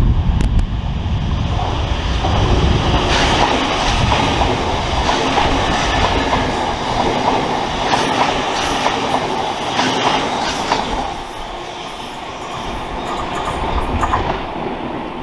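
Electric multiple-unit train running along the platform, its wheels clicking over rail joints. The noise eases off after about eleven seconds. A low wind rumble on the microphone sounds at the start.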